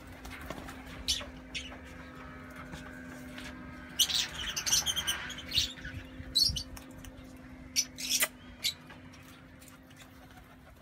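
Scattered short bird chirps, with a quick cluster of them about four seconds in, over a steady low hum.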